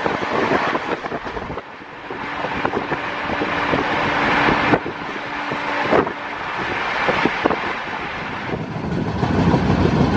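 Moving passenger train: a steady rush of wind and running noise with many short clicks and rattles from the wheels and carriage. The sound changes abruptly a few times.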